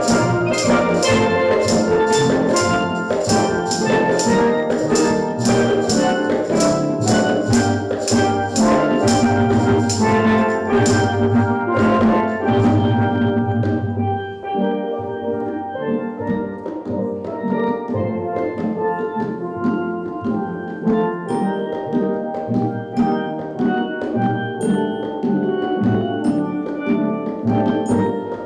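Steel drum band playing a tune, with bass pans and a steady percussion beat. About halfway through, the bass and beat drop away to a lighter passage.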